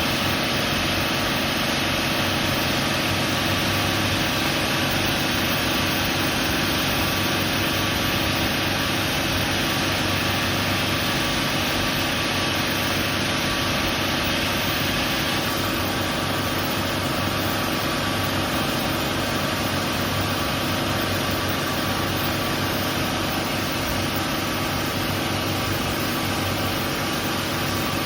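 Bayliner 4788 motor yacht's engines running steadily under way, a continuous hum with hiss over it that eases a little about halfway through.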